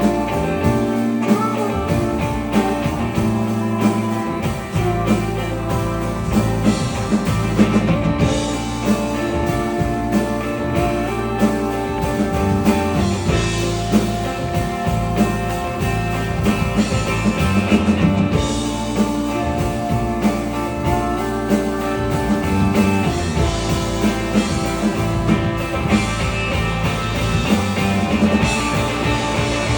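Rock band playing live: guitars and bass over a drum kit keeping a steady beat.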